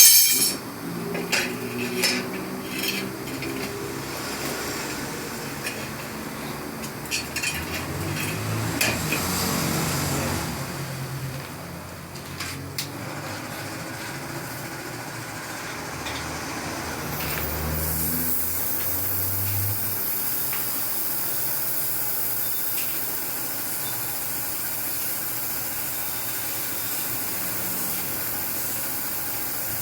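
Metal tyre levers clinking and scraping against a motorcycle wheel rim while the tyre is worked off to get at the inner tube, then a steady high hiss from a little past halfway on.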